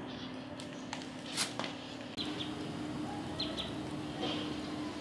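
Quiet ambience with a steady low hum, a single light metallic clink about a second and a half in, and a few faint, short bird chirps in the second half.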